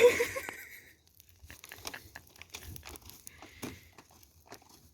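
Garden bonfire of plant waste and old trellis wood crackling, with irregular sharp pops and snaps. A louder rush of noise comes right at the start.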